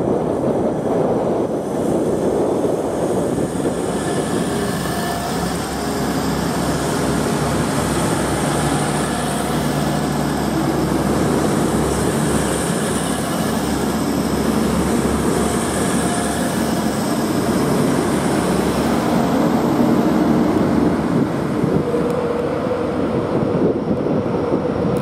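Hull Trains Class 180 diesel multiple unit running slowly past along the platform: its underfloor diesel engines and wheels on the rails make a steady, continuous rumble.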